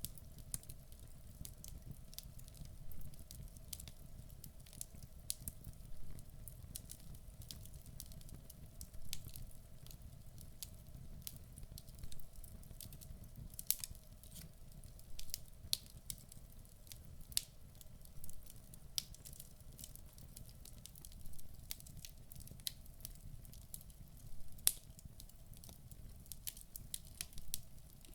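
Log fire in a fireplace burning with a low rumble, crackling and popping in sharp, irregular snaps. One louder pop comes near the end.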